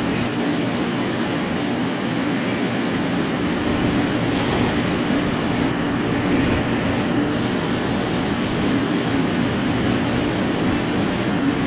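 Steady, even whirring hum with a low drone from a 500 series Shinkansen standing at the platform, its on-board equipment running.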